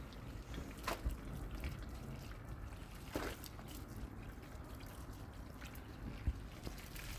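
Water trickling and dripping, with a couple of short splashes, about one second in and about three seconds in, during washing.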